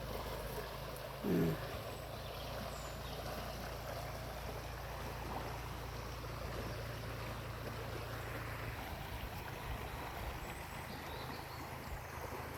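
Steady rush of a creek's flowing water, with a low hum under it and a short falling tone about a second in.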